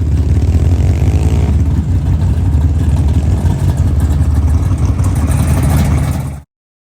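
Car engine running loudly with a rapid low pulsing exhaust, held steady, then cut off suddenly about six and a half seconds in.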